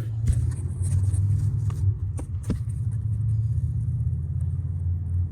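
A steady low rumble with a few sharp clicks in the first two and a half seconds.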